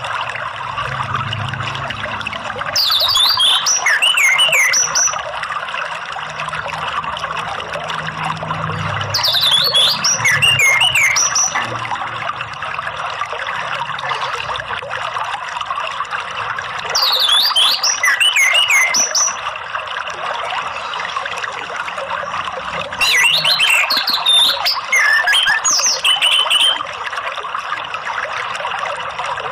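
Orange-headed thrush (anis merah) singing four short phrases of quick sliding notes, roughly every six seconds, over the steady rush of flowing water.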